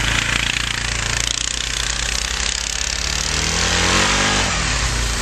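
A small engine running hard amid heavy rushing noise, with a rapid low pulsing; its pitch slides down about three seconds in.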